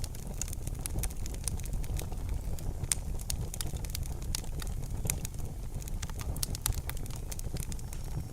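Wood fire burning in a fireplace: a steady low rumble of flames with sharp, irregular crackles and pops, coming thicker from about three seconds in.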